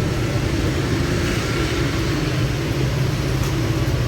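Steady motor-vehicle drone: a low engine hum with road noise that holds even throughout.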